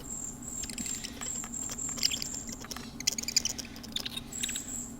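Merganser ducklings peeping: a steady run of high, thin calls, one after another, with light clicking and pattering among them.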